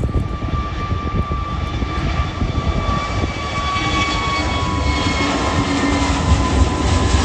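Jet airliner's engines, a high whine over a low rumble, its tones slowly falling in pitch as the aircraft passes and growing louder toward the end.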